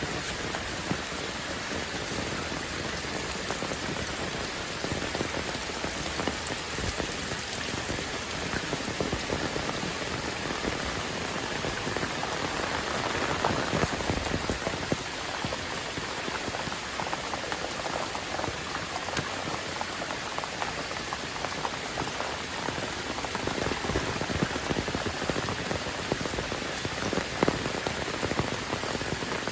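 Heavy rain pouring down, a dense steady hiss with many close drops pattering and popping on surfaces.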